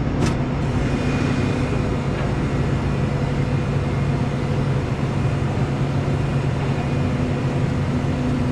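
Hino rollback tow truck's hydraulic bed moving under lever control, with a steady, even hum from the truck's engine and PTO-driven hydraulics.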